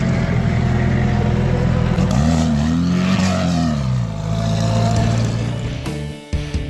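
Engine of a Volkswagen Beetle off-road rally car driving past close by, revving up and dropping back about two seconds in. Near the end it gives way to rock music with drums.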